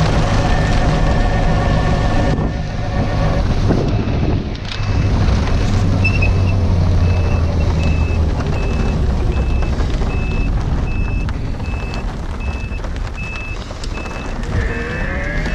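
A vehicle's reversing alarm beeping steadily at just under two beeps a second, starting about five seconds in, over a continuous low engine rumble.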